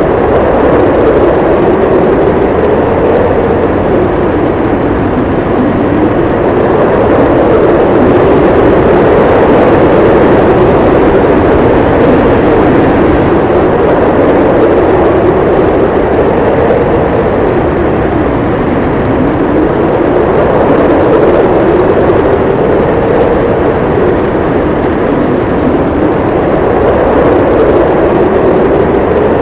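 Howling wind of a winter snowstorm: a loud, continuous rush whose pitch slowly rises and falls over several seconds at a time.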